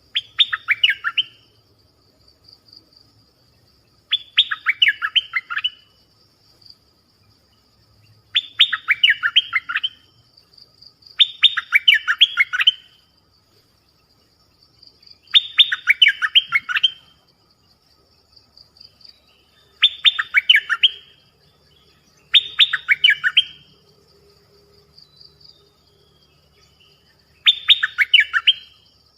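A songbird singing the same short, rapid phrase of notes over and over, roughly every three to four seconds, eight times. A faint steady high buzz runs underneath.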